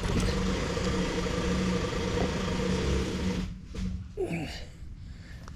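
A small motor running steadily with a humming tone for about three and a half seconds, then stopping.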